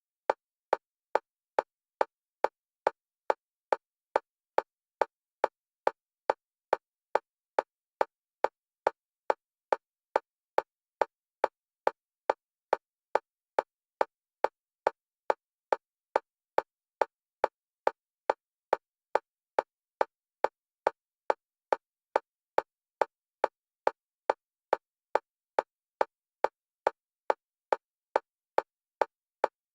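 Synthetic metronome click at a single pitch, repeating evenly about twice a second and alternating between the left and right stereo channels, as used for EMDR bilateral stimulation.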